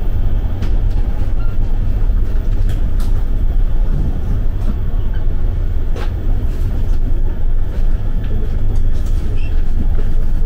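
Passenger train running on the rails: a steady low rumble with occasional clicks and knocks.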